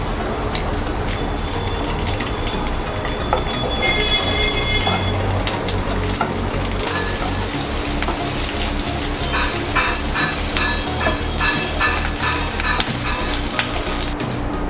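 Green capsicum (bell pepper) chunks sizzling in hot oil in a nonstick pan, with the tap and scrape of a wooden spatula stirring them now and then.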